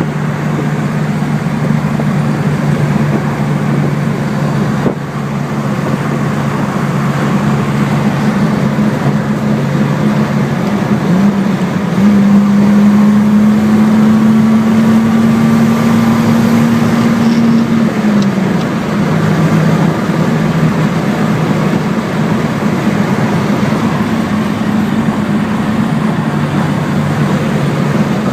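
1973 Datsun 240Z's straight-six engine running while the car is driven. The engine note is steady, then the revs climb about eleven seconds in and hold there, louder, for several seconds before dropping back.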